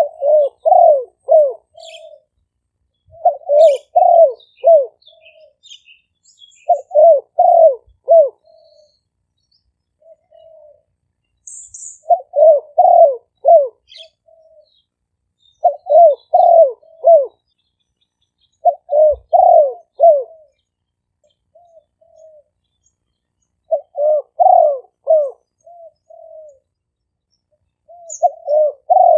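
Spotted dove decoy cooing: a phrase of three or four loud coos followed by a softer trailing note, repeated about every three and a half seconds. Faint chirps from small birds sound in the background.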